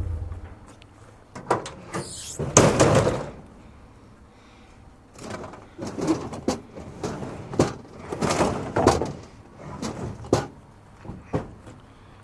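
A truck engine hum stops right at the start. Then a loud scrape about two seconds in, followed by a run of sharp knocks and clanks, like doors and a heavy metal hand truck being handled.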